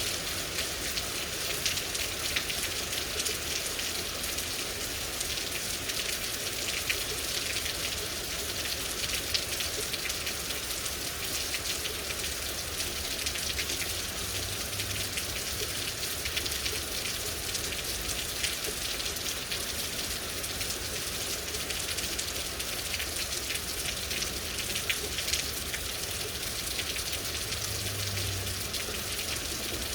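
Steady rain falling, a continuous hiss with many small individual drop patters throughout.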